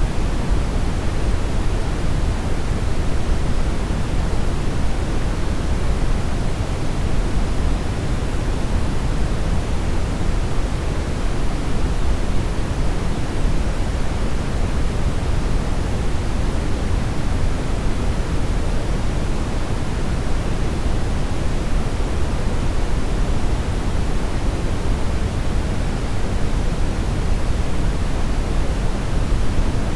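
Synthetic brown noise: a steady, even rumbling hiss weighted heavily toward the low end, with no changes or events.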